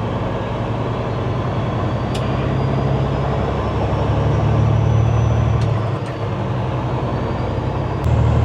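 Semi-truck diesel engine running inside the cab while driving in slow traffic, a steady low drone that drops off about six seconds in and picks up again near the end, with a faint high whine rising and falling.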